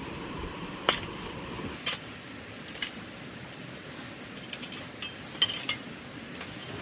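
Irregular sharp knocks and metallic clinks, about half a dozen spread out, over a steady low background noise.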